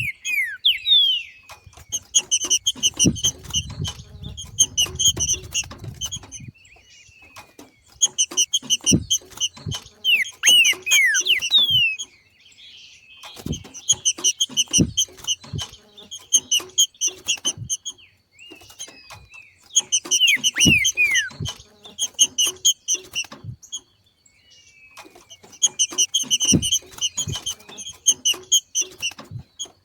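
Trinca-ferro (green-winged saltator) giving its 'macheado', the rapid chattering call of a bird coming into breeding condition. It comes in repeated bursts of about two seconds of fast, evenly spaced high notes, with short downward-sliding whistles between them.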